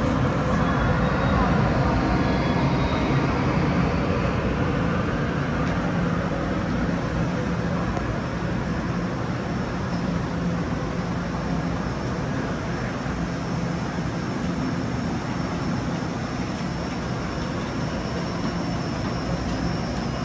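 Steady drone of a train running, with indistinct voices in the background. It eases slightly after the first few seconds.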